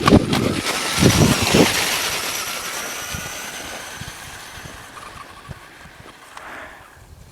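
Radio-controlled toy truck driving off: a few thumps at first, then a high motor whine with running noise that fades out over about six seconds.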